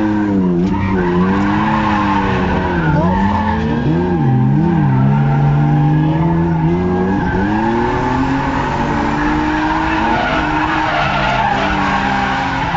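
BMW E36 cars drifting in tandem: engines revving up and down with tyres squealing and skidding. The engine pitch swoops repeatedly through the first half, then holds steadier near the end.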